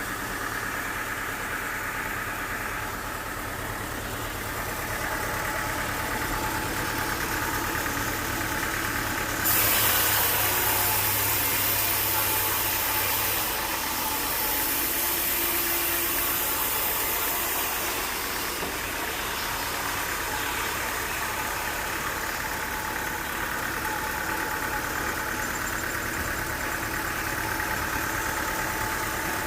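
Sawmill engine running steadily. About ten seconds in, a loud hissing noise cuts in suddenly and lasts for several seconds before easing off.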